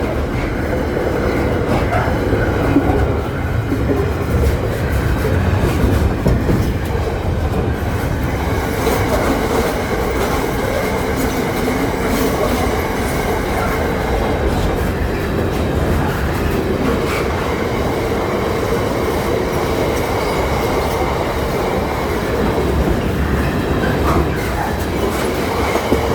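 Freight train hauled by a GBRf Class 66 diesel locomotive passing, a steady loud rumble of wheels on rails.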